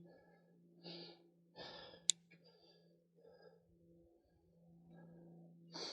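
Faint breathing of a cyclist pedalling, in short puffs, over a low steady hum, with one sharp click about two seconds in.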